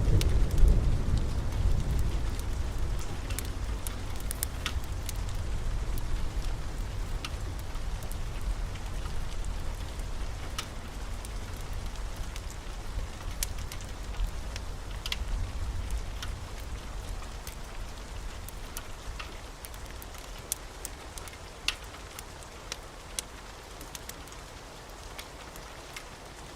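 Steady rain, with the tail of a low thunder rumble dying away in the first few seconds and scattered sharp crackles of a wood fire.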